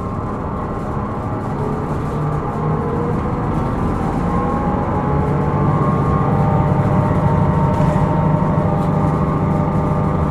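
Hino Rainbow II city bus heard from inside, its diesel engine and drivetrain running under way and getting a little louder, with whining tones that rise in pitch as the bus picks up speed. The recording is labelled for an abnormal noise (異音) from this bus.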